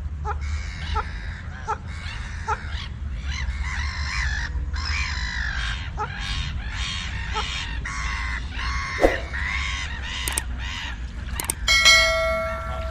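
A flock of ducks calling, many harsh overlapping calls in quick succession over a steady low rumble. Near the end a steady pitched tone sounds for about a second.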